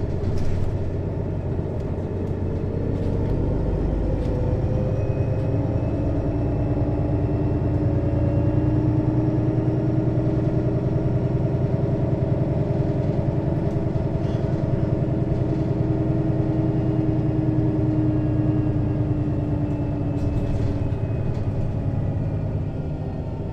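Mercedes-Benz Citaro city bus engine and ZF Ecomat automatic gearbox under way, heard from over the engine at the rear. The engine note climbs gently over the first several seconds, holds steady, then drops away near the end.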